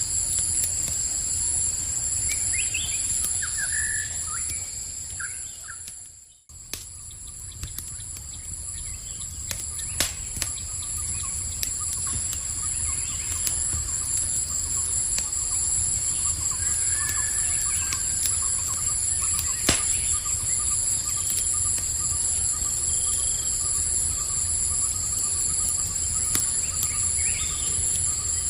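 Campfire crackling with scattered sharp pops over a low rumble, with insects chirping steadily in high, shrill tones and a few short bird chirps. About six seconds in, the whole sound fades out briefly and swells back in.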